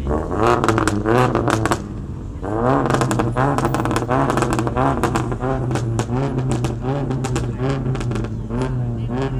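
Vehicle engine revved again and again over a steady low idle, its pitch swinging up and down in quick blips with sharp pops and crackles. There is a short lull about two seconds in.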